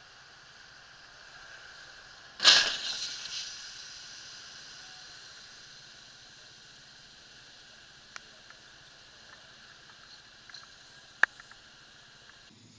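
A car collision picked up by a dashcam: a sudden loud bang about two and a half seconds in, trailing off in a noisy clatter over about a second, over steady road hiss. Two sharp clicks come later.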